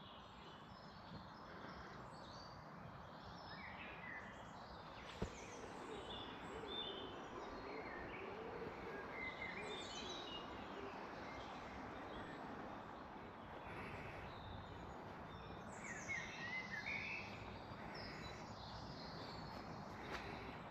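Faint birdsong in a garden: several small birds singing and chirping in short phrases over a steady background hiss, busiest about sixteen seconds in. A single sharp click about five seconds in.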